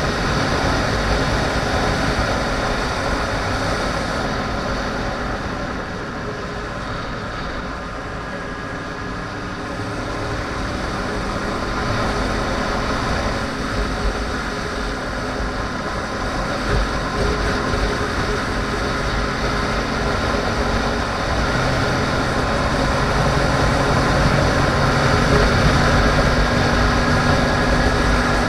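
A 2010 Yamaha R1's crossplane inline-four running at road speed, mixed with wind rushing over the microphone. It eases off about five seconds in and builds again toward the end as the bike accelerates.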